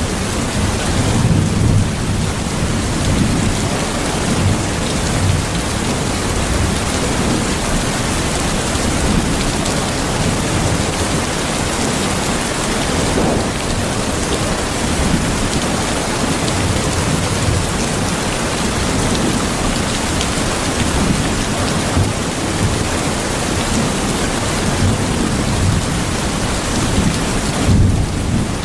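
Steady heavy rain, a dense even hiss, with a low rolling rumble underneath that swells and fades.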